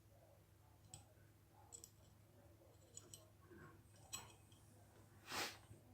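Faint, scattered small clicks of revolver parts and a screwdriver being handled while the trigger screw is lined up, four or so light ticks a second or more apart, with a brief louder scrape near the end.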